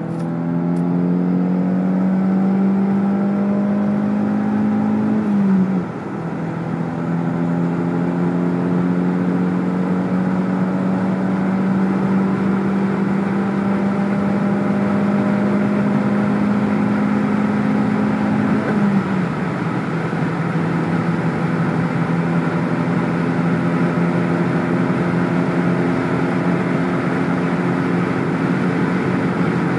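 Chevrolet Cobalt SS's turbocharged four-cylinder engine under full throttle, heard inside the cabin, its pitch climbing slowly as the car accelerates toward top speed. The pitch drops suddenly twice, at upshifts about five seconds in and again about nineteen seconds in, then climbs again.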